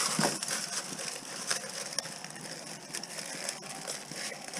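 Fine copper motor-winding wire being worked by hand: continuous scratchy crackling with many small irregular clicks.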